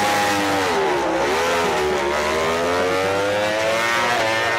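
Several MotoGP racing motorcycles' four-cylinder engines at high revs, overlapping. Their pitch dips about a second in as they come off the throttle, then climbs steadily as they accelerate through the gears.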